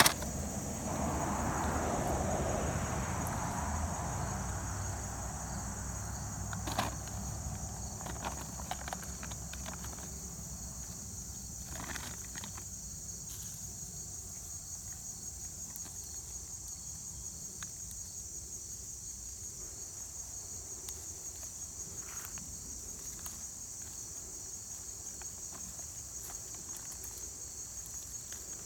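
Steady high-pitched chorus of crickets or similar insects, with rustling and handling noise over the first few seconds and a few scattered light knocks.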